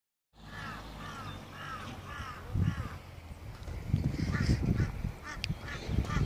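A bird calling repeatedly: about five arching calls at roughly two a second, then a run of shorter, fainter calls from about four seconds in. Underneath, low, irregular rumbling of wind on the microphone, loudest in the second half.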